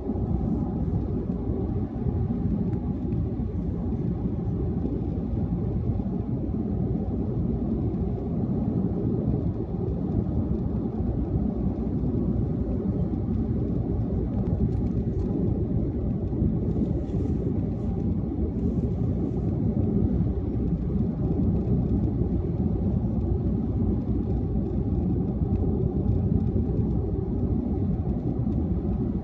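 Steady low rumble of a car driving at highway speed: tyre and engine noise.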